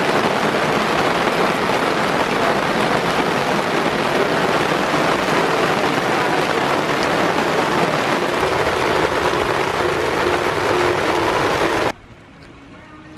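Heavy rain pouring down, a loud steady hiss. It drops suddenly to a much fainter level near the end.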